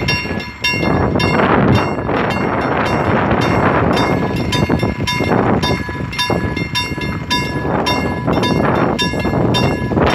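A level-crossing warning bell rings quickly and evenly, about three strikes a second. Under it, an Sr1 electric locomotive and its mixed freight wagons pass close by with a steady, loud rumble of wheels on the rails.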